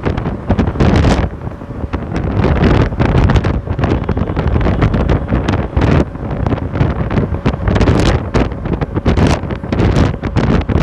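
Heavy wind buffeting the microphone of a camera carried on a bike ride, loud and surging in uneven gusts.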